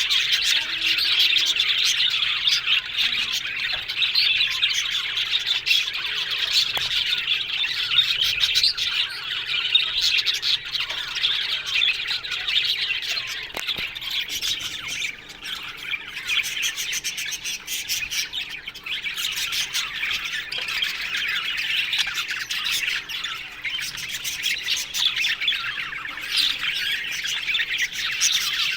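A colony of budgerigars chattering, with many birds chirping, warbling and squawking over each other in a continuous dense chorus.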